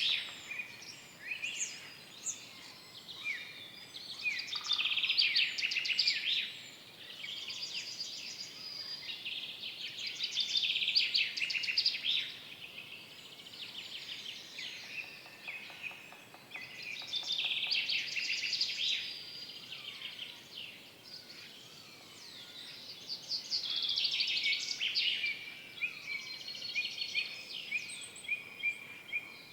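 Several songbirds singing. Rapid, trilling phrases of about two seconds come every five to seven seconds, over a faint steady background hiss.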